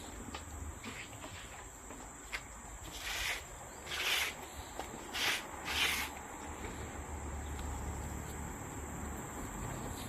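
Steady high-pitched trill, like crickets, with four short rushes of noise between about three and six seconds in.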